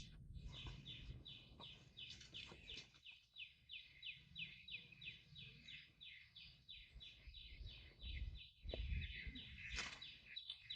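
Faint, rapid, evenly spaced chirps, each sliding down in pitch, about three a second, from a bird calling steadily.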